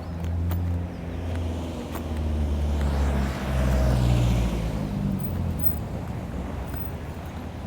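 Honda CB500X's parallel-twin engine with its stock exhaust, running while the bike is ridden. The engine note shifts in steps, grows louder about three to four seconds in, and eases off after about five seconds.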